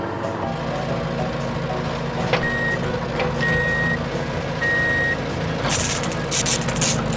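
Truck engine running steadily, with three reversing beeps at one pitch in the middle, then a loud burst of hissing and clattering near the end.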